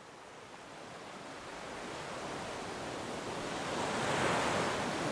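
Ocean waves: a rush of surf that swells steadily and peaks about four seconds in.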